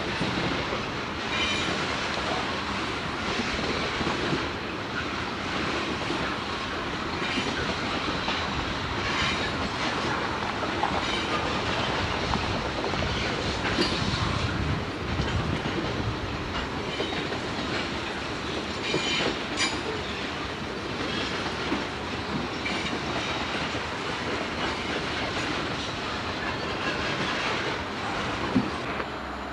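Freight train rolling past, a steady rumble with repeated clicks of the car wheels over rail joints.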